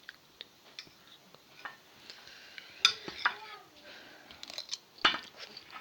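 Dishes and cutlery clinking and clattering, with two sharper knocks about three and five seconds in.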